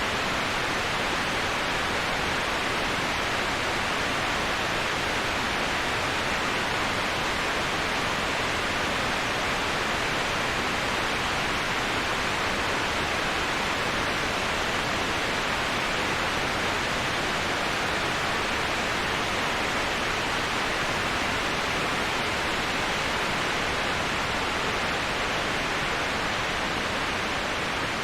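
Waterfall, a steady, even rush of falling water with no breaks or changes, heaviest in its hissing upper-middle range.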